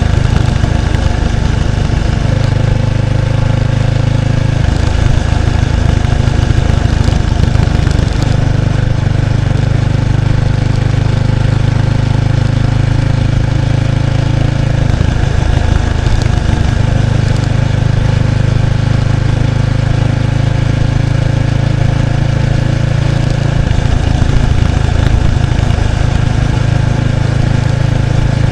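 Exhaust note of a 1993 Kawasaki Estrella's air-cooled 250cc single-cylinder engine through its stock muffler, heard close at the tail while riding at a steady pace. The note shifts a few times as the throttle or gear changes.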